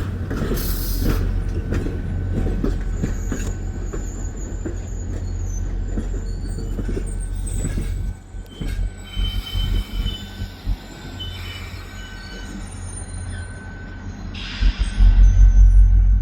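VIA Rail passenger train rolling slowly through switches: a deep steady rumble with wheels clacking over rail joints and switch points, and thin wheel squeal. The clacking thins out about halfway through, and the rumble swells louder near the end.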